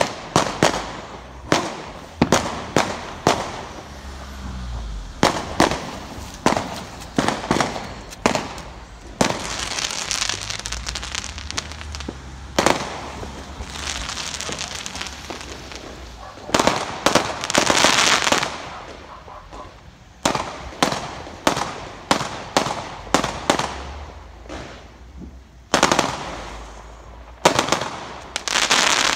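Fireworks going off: a dense run of sharp bangs, some in quick volleys, with longer crackling hisses from bursting shells and a low rumble from the display between them.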